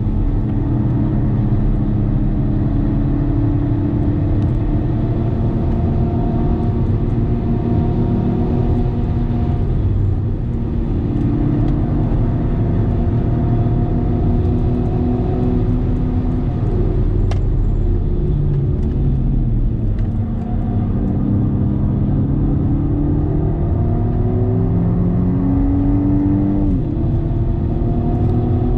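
A BMW M135i xDrive (F40)'s turbocharged four-cylinder engine heard from inside the cabin on a fast lap. The pitch climbs under acceleration and falls away when it eases off, several times over, with a gear change near the end, over steady tyre and road noise.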